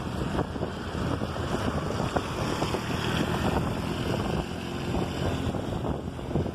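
Wind buffeting the microphone on a moving scooter, with the engine running underneath in a steady rumble.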